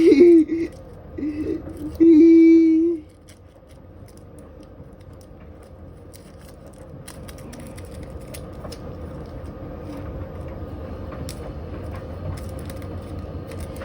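Washing machine running with a stone loose in its drum: a low rumble with scattered knocks and clicks, slowly growing louder. At the start, a voice gives three loud held tones.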